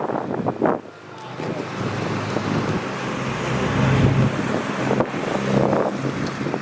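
A custom car's engine running as the car pulls away and drives past, its low rumble building to its loudest about four seconds in. Gusts of wind buffet the microphone in the first second.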